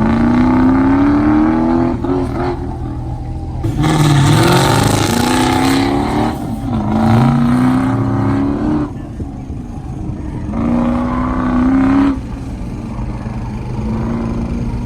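Car engine run hard on an autocross course, rising in pitch under acceleration in repeated pulls and easing off between them. A loud rushing noise comes in about four seconds in.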